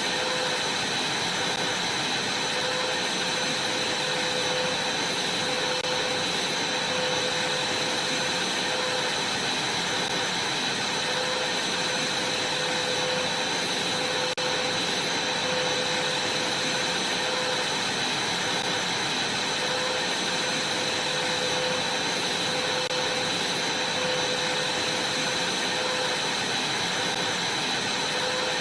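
Vacuum cleaner running steadily, a constant rushing noise with a high whine.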